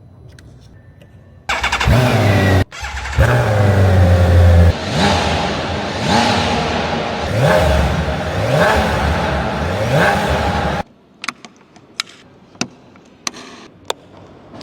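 BMW K1600GTL motorcycle's inline six-cylinder engine starting about a second and a half in and then revving repeatedly, its pitch sweeping up and back down about once a second. Near the end the engine sound cuts off abruptly and a few sharp clicks follow.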